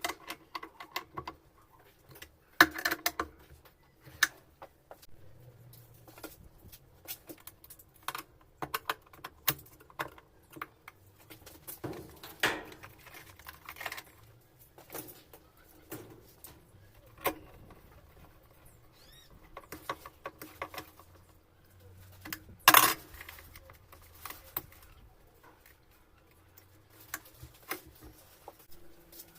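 Scattered metallic clicks, clinks and knocks of parts and tools being handled while a washing machine's mechanism is put together, with louder knocks about three seconds in and about two-thirds of the way through.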